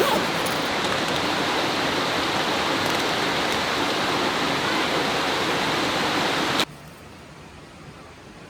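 Rushing river water, a steady loud rush that cuts off suddenly about six and a half seconds in, leaving only a faint hiss.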